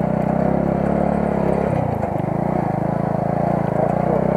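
Car engine running while driving, a steady drone of engine and road noise; the engine note dips briefly and picks up again about two seconds in.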